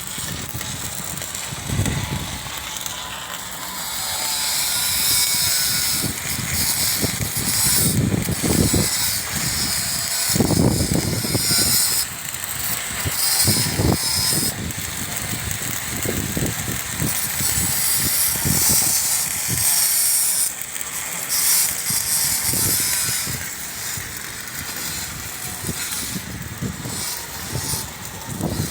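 Arc welding on structural steel: a dense high-pitched crackle that starts and stops in runs of a few seconds, with scattered low knocks in between.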